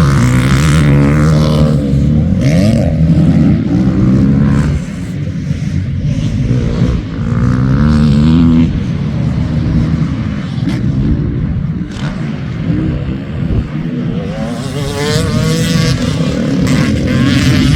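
Motocross dirt bikes racing, several engines at once revving up and down as they accelerate and shift.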